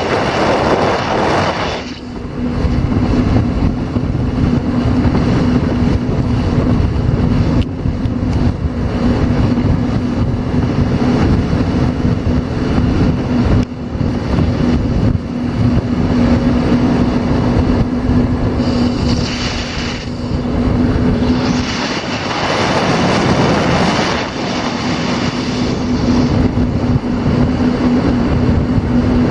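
Watercraft engine running at a steady pitch close by, with a rushing noise that swells three times over it.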